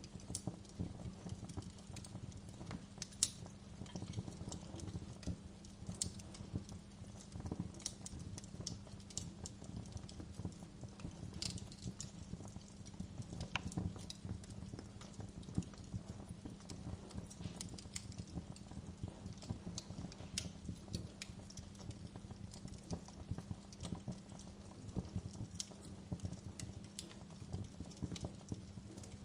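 Wood fire burning in a fireplace, with a steady low rumble of the flames and frequent irregular crackles and pops, a few of them sharper and louder.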